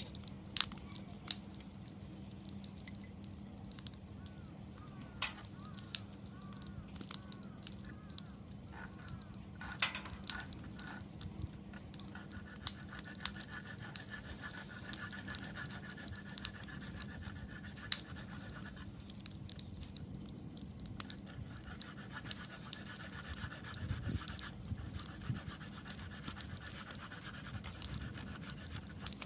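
Wood campfire crackling, with irregular sharp pops and snaps from the burning wood, a few much louder than the rest.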